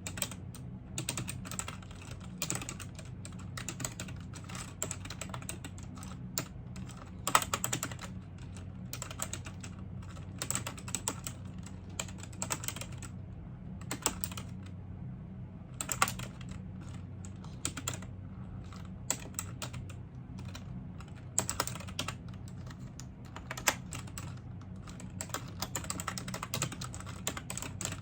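Continuous typing on a computer keyboard: irregular runs of key clicks with short pauses, and now and then a louder single stroke. A steady low hum sits underneath.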